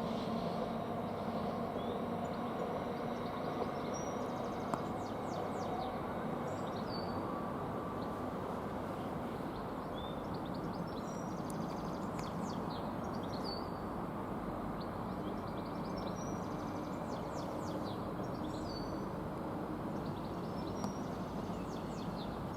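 Steady background noise of a railway station between trains, with a faint hum that fades over the first several seconds. Small birds chirp repeatedly throughout.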